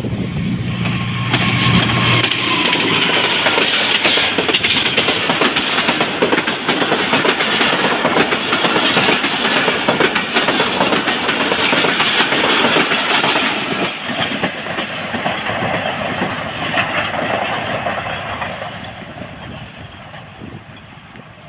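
Express passenger train hauled by a ZCU-20 diesel-electric locomotive passing at speed. The locomotive's engine is heard for the first couple of seconds, then a long run of coaches rushes by with rapid wheel clatter over the rail joints. The sound fades away over the last several seconds.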